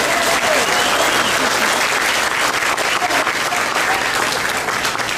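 Audience applauding: many hands clapping in a dense, steady patter, with a few voices among it.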